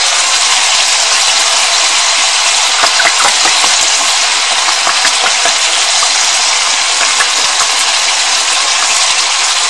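Chicken bones frying in hot oil at high heat, a steady loud sizzle, just after black soy sauce has gone into the pan. A few light clicks of a utensil stirring against the pan come around three seconds in.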